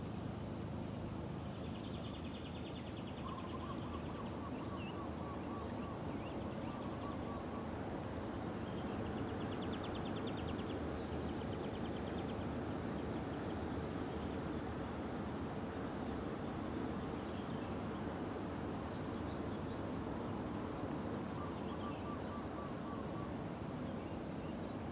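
Wild birds calling over a steady rushing background. A rapid buzzy trill comes twice, a run of repeated lower chirping notes comes twice, and short high chirps are scattered throughout.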